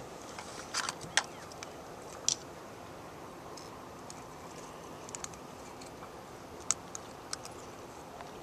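Scattered light, sharp clicks and ticks at irregular intervals over a steady background hiss.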